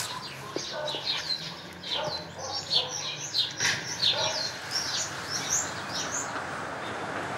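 Small birds chirping busily: a quick run of short, high, downward-sliding chirps over a steady outdoor hiss. The chirps stop about six seconds in.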